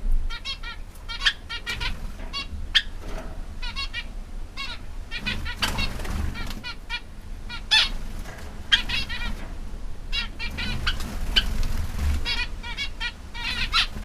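A group of small exotic finches, zebra finches among them, keeps up a busy chatter of short, nasal, stacked calls, several birds calling over one another.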